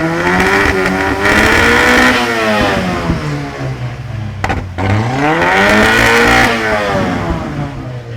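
Car engine revved hard twice through a flame-exhaust kit's exhaust, the pitch climbing, holding high, then falling each time, with a short break between the two revs.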